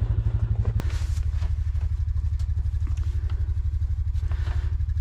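A four-wheeler's engine idling steadily with a fast, even pulse, with a sharp click about a second in.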